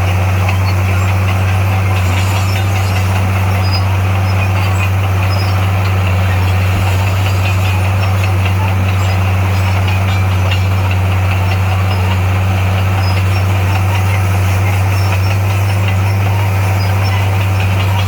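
Heavy construction-machine diesel engine running at a steady, unchanging pitch with a deep hum.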